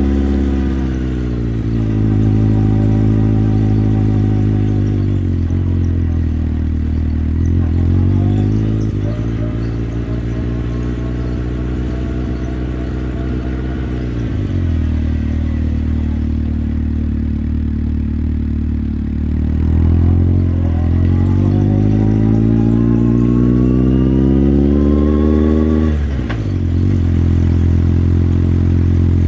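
Motorcycle engine running under way, its pitch climbing as the rider opens the throttle and dropping as he eases off, several times over; the longest climb ends in a sudden drop near the end.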